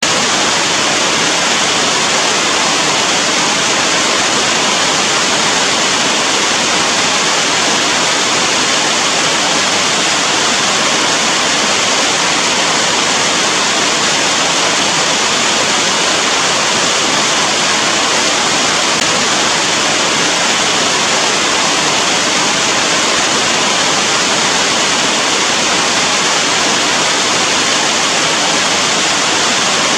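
Heavy rain falling steadily: a loud, even hiss with no separate drops standing out and no thunder.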